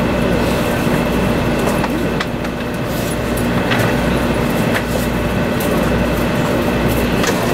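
Running noise of a 500 series Shinkansen heard inside the passenger car: a steady rumble and rush with a constant low hum and a few light clicks.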